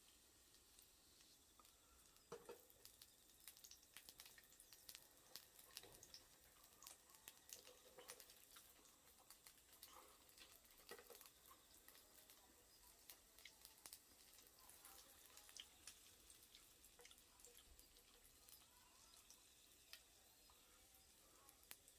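Faint, irregular crackling and popping from a small wood fire burning in a flame stove, with light sizzling from the cooking.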